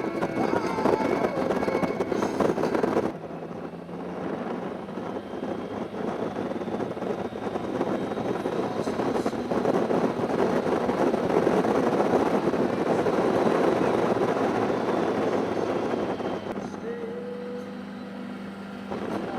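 Motorcycle riding along: engine and rushing noise that drops abruptly about three seconds in, swells again to a peak midway, then eases off near the end, leaving a low steady hum.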